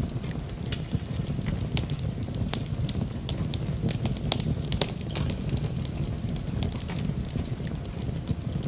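Wood fire burning in a fireplace, crackling with many sharp, irregular pops over a low, steady rumble of flames.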